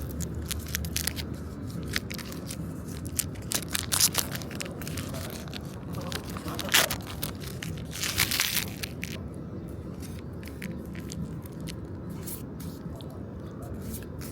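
Trading card booster pack wrappers crinkling and tearing open, with cards handled: a run of short crackles and rustles, loudest about four seconds in and again about seven to eight seconds in.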